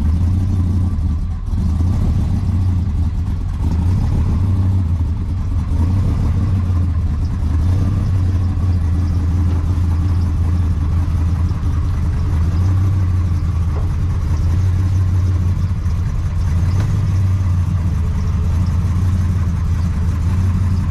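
A vehicle engine running steadily at idle, holding an even pitch with no revving.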